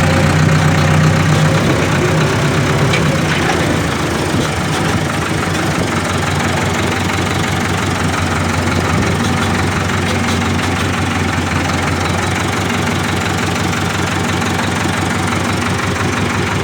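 Tractor engine running loud and steady, easing slightly in level about four seconds in.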